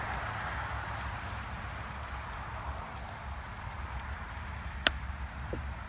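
Steady background rumble and hiss, with one sharp click near the end.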